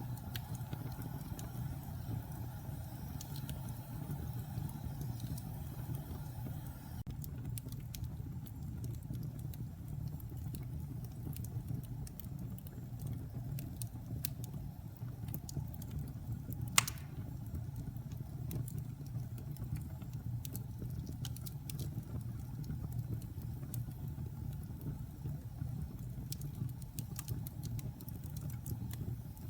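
Wood fire burning in a fireplace: a steady low rumble of flames with scattered small crackles, and one sharp pop from the logs a little past halfway.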